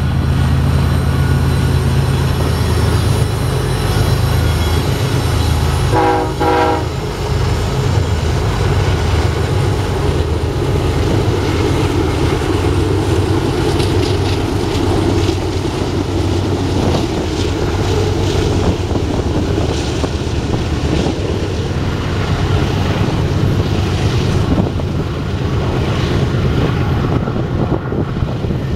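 BNSF double-stack container train passing close by. Its diesel locomotives rumble past with two short horn blasts about six seconds in, then the container cars' steel wheels roll and clatter on the rails.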